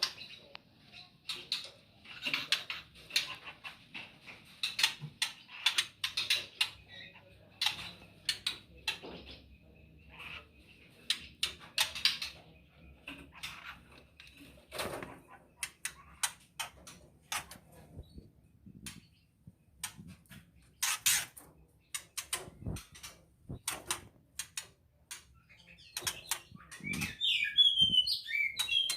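White-rumped shama in its cage making many sharp clicks and taps with short chirps, breaking into a brief burst of warbled song near the end.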